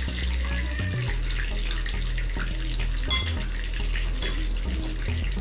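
Eggplant deep-frying in hot oil, a steady sizzling hiss, with one sharp utensil clink about three seconds in.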